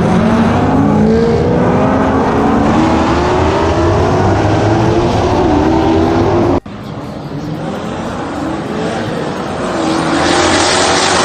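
Drag cars accelerating hard down the strip, engine pitch climbing steadily with a brief drop at a gear change. About two-thirds in the sound cuts off suddenly, and another engine rises in level near the end.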